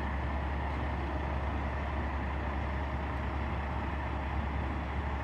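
A vehicle engine running steadily: a constant low rumble with an even background hiss, no change in pitch or level.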